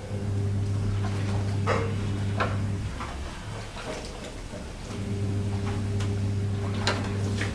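A small electric power tool's motor running with a low steady hum in two runs of about three seconds each, with short clicks and taps of metal parts between and during them.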